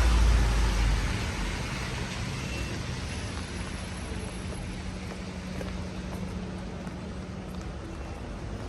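A car passing on a wet street, its rumble fading away about a second in, then steady rain.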